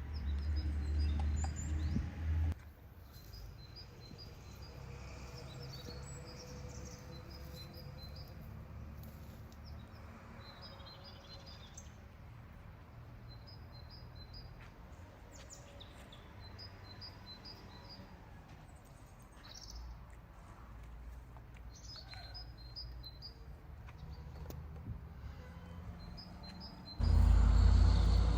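Small birds chirping in short quick runs of three or four notes, again and again, over a low steady background rumble. A louder low sound stops suddenly about two and a half seconds in and starts again near the end.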